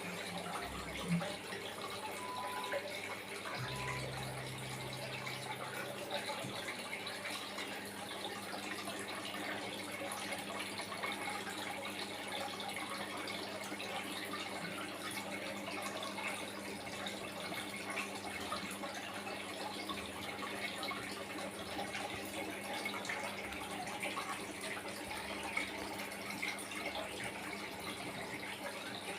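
Water trickling and splashing steadily down a small homemade aquarium waterfall, with a low steady hum underneath.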